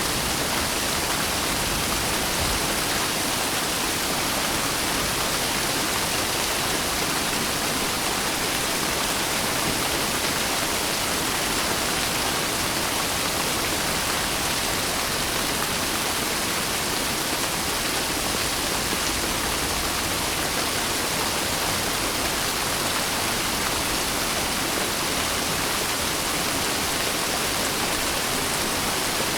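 Steady rain falling, a dense, even hiss with no breaks or changes in level.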